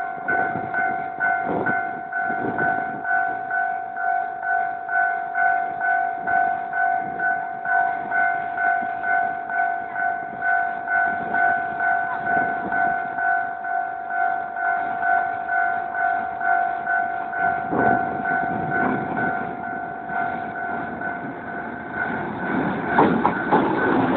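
Level-crossing warning bell ringing in an even, repeating ding of about one and a half strokes a second, and stopping a few seconds before the end. A louder rumble with sharp knocks then builds as the R50 diesel-electric locomotive's coal train reaches the crossing.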